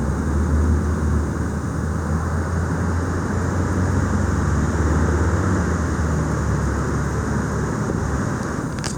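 Steady low rumble with a hiss over it, carrying on unchanged; a couple of brief clicks come just before the end.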